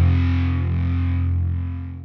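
Background music: a held, distorted electric guitar chord fading out near the end.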